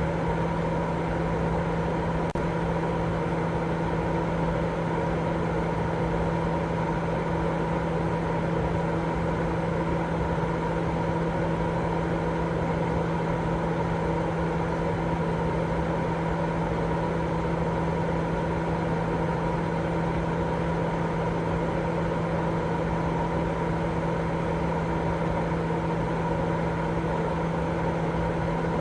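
Continuous white-noise sleep sound: an even, steady hiss weighted toward the low end, with a steady low hum in it, like a fan or engine drone.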